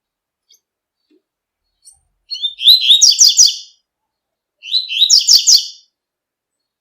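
Double-collared seedeater (coleiro) singing its 'tui tui' song: two short phrases of rapid high notes, each a little over a second long and about a second apart.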